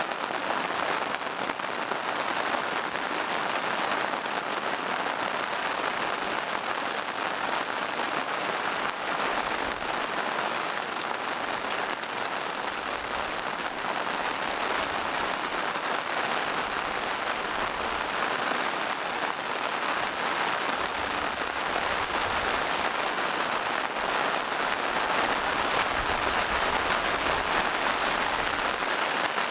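Steady rain falling on a forest, a dense even patter of drops on leaves and rocks.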